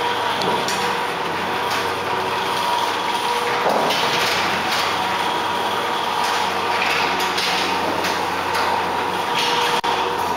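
Automatic garage door opener running and the door moving along its tracks. The door closes onto a jug of water and reverses back up, which shows the opener's pressure-sensitive auto-reverse working. The running sound stops just before the end.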